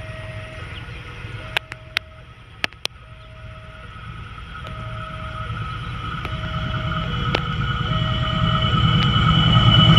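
Railway level-crossing alarm repeating a slow two-tone signal, while an approaching diesel-hauled passenger train grows steadily louder, its engine rumble and a steady high whine rising toward the end. A few sharp clicks come between about one and a half and three seconds in.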